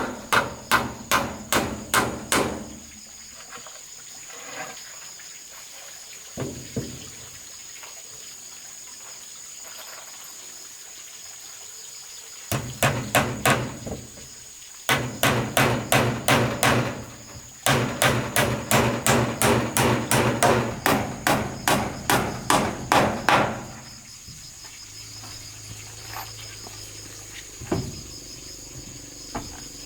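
Hammer blows on wood in rapid, even runs of about three strikes a second, broken by pauses. Insects chirr steadily underneath.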